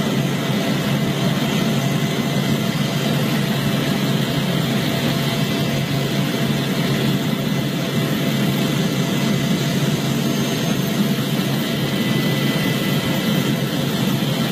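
Steady, unchanging mechanical roar with a few faint, steady whining tones above it.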